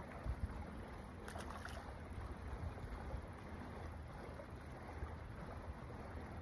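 A motorboat running on the water, heard as a steady low rumble, with a few faint clicks about a second and a half in.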